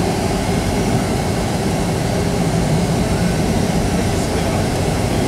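Steady cabin noise of a Boeing 757-200 taxiing: jet engines at idle and the air-conditioning, a low rumble with a faint steady hum.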